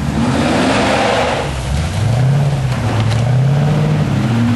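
Off-road 4x4's engine revving hard under load, its pitch rising twice, with a rushing noise over the first second and a half.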